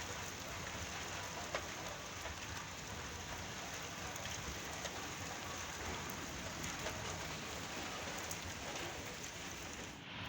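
Steady rain falling, with scattered sharper drop taps through the hiss. The sound dips and changes character abruptly at the very end.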